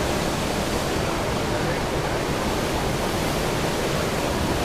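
Steady rushing noise of wind and sea water, an even roar with no separate events.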